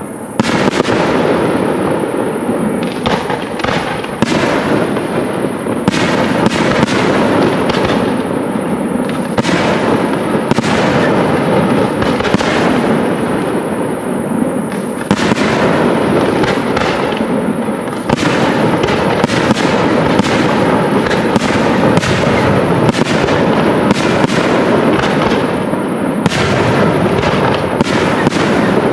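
Aerial fireworks display in full barrage: many sharp bangs, one after another, over a dense, unbroken crackle.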